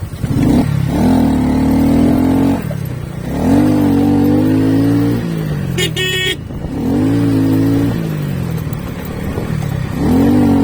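Motorcycle engine running under way, its revs climbing, holding, then dropping off several times as the throttle opens and closes. A short high-pitched horn beep sounds about six seconds in.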